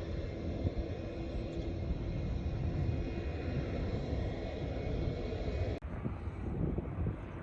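Steady low rumble of a jet airliner's engines. About three-quarters of the way through it drops out for an instant and comes back slightly different, as at an edit cut.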